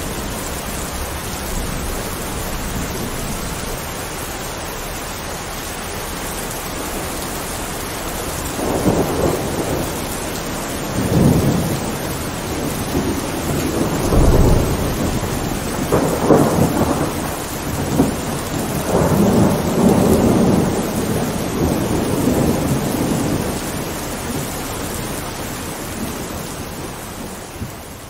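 Thunderstorm: steady rain with a series of thunder rumbles through the middle, the loudest around halfway, then the rain fades down near the end.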